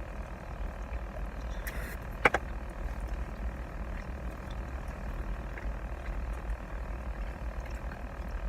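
Steady low rumble of a car's interior, with one sharp click a little over two seconds in.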